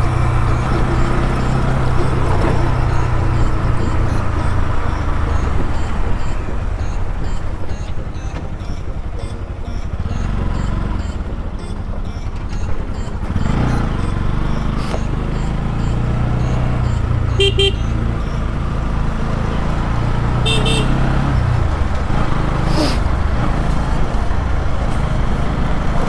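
Bajaj Pulsar NS200 single-cylinder engine running under way. Its note drops about halfway through and then picks up again, and two short horn toots come a few seconds later.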